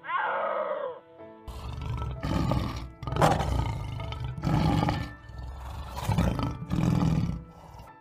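Lion roaring in a series of about five deep, rough roars with short pauses between them, over background music. A brief falling call comes just before the roars.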